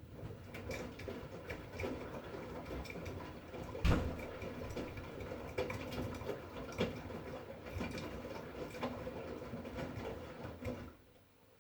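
V-Zug Unimatic SL washing machine in a 40°C wash, its drum turning wet laundry through the wash water with sloshing and soft knocks and one heavier thump about four seconds in. It stops abruptly near the end, as the drum pauses between turns.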